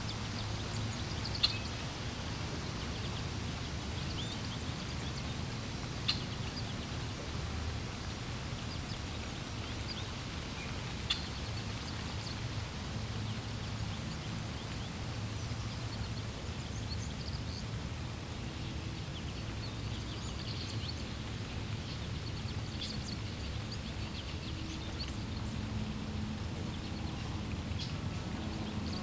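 Birds chirping in short, scattered calls over a steady low rush of flowing water.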